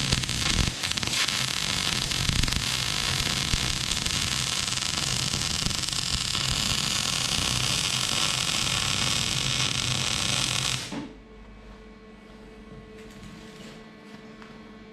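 Electric arc welder welding steel: a loud, steady crackling hiss with a low buzz for about eleven seconds, sputtering as the arc settles at the start, then cut off abruptly as the arc is broken, leaving a faint hum.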